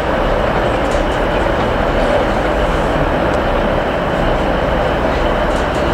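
A train running, a loud steady noise with an even hum throughout.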